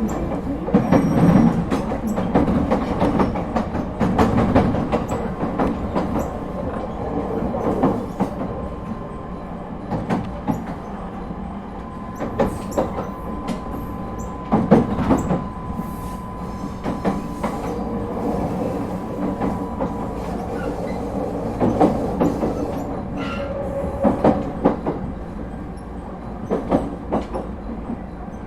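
Running noise heard inside an ET127 series electric train car, with irregular rail-joint clicks and knocks over a steady rumble, and a thin steady whine for several seconds midway.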